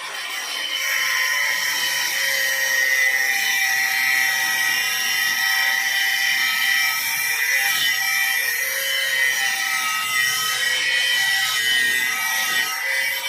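Power tool running steadily with a high-pitched whine, working on metal.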